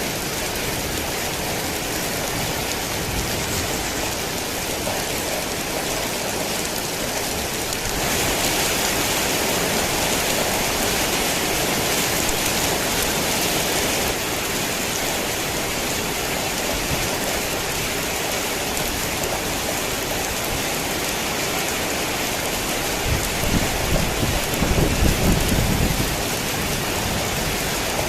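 Heavy rain pouring steadily, a little louder for several seconds about a third of the way in. Near the end a low rumble of thunder rolls in under the rain.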